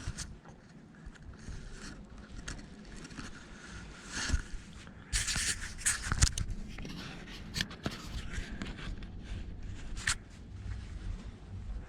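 Irregular scraping and rustling close to the microphone, with a longer, louder stretch of scraping about five seconds in and scattered sharp ticks.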